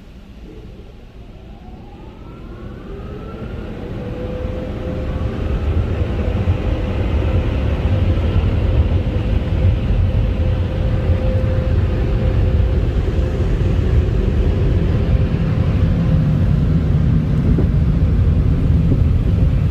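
Belanger Sidekick car-wash dryer blowers spinning up with a rising whine over the first few seconds, then running steadily with a loud rush of air against the car, heard from inside the car.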